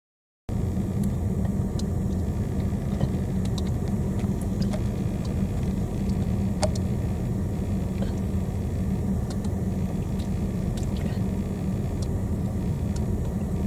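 Steady low rumble of a car idling, heard from inside the cabin, with a few faint short high ticks scattered through it.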